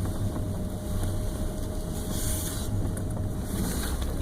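Ford F-150's 5.4-litre three-valve V8 and road noise heard from inside the cab, a steady low rumble as the truck rolls slowly, with a brief hiss about two seconds in.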